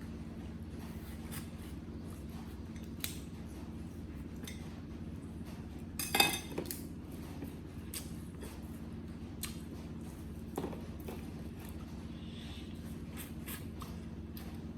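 Knife and plate being handled: scattered light clicks and clinks, with one loud clatter about six seconds in and a smaller knock about ten and a half seconds in.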